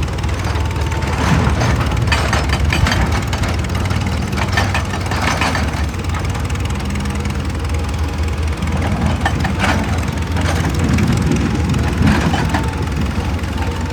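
Excavator engine running steadily under load, with irregular crunching and scraping of rock and stone.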